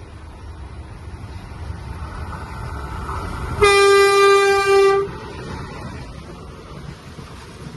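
Indian Railways WAP-4 electric locomotive's air horn sounding one blast of about a second and a half, a little past the middle, over the rumble of an approaching express train that builds beforehand and carries on after.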